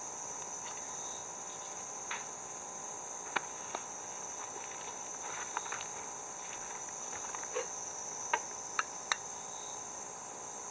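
Steady high-pitched chorus of crickets or similar insects, with a scattering of short light clicks and taps, the sharpest ones near the end.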